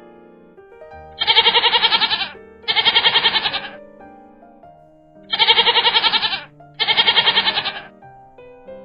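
A goat bleating four times, in two pairs of long quavering calls about a second each, over quiet background music.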